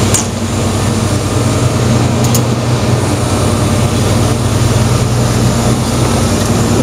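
Heavy diesel machinery running steadily: a loud, even low hum with a deep throb. A light tick sounds near the start and another about two seconds in.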